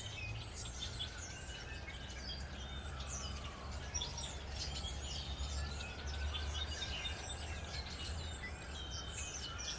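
A chorus of songbirds chirping and singing in a large Douglas fir, many short overlapping calls, over a steady low rumble. A faint long tone rises and falls twice in the background.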